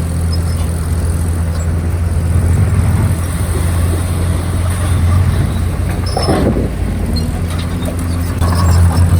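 Komatsu D51PX crawler bulldozer's diesel engine running steadily under load, with a short louder scraping burst about six seconds in.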